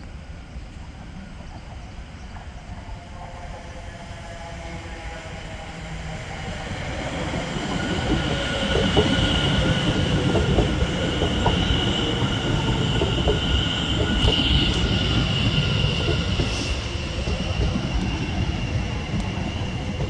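Electric multiple-unit passenger train, a Class 720 Aventra, approaching and passing over a level crossing. The rumble builds from a few seconds in and is loudest through the middle, with wheels clicking over the crossing rails and a steady high whine above it.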